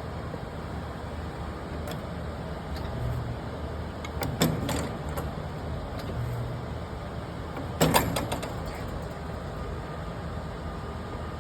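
Panasonic HI-MAX500 HM-1 spot welder making two welds: each is a sharp snap with a short crackle, about three and a half seconds apart, over a steady low hum.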